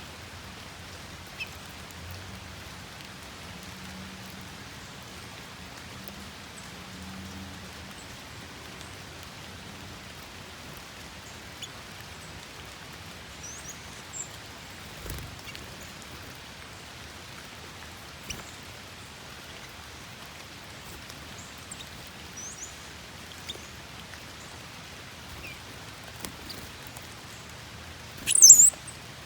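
Steady rain falling, a fine even hiss with scattered drop ticks. Small birds chirp faintly now and then, and one bird gives a short, loud, high call about a second before the end.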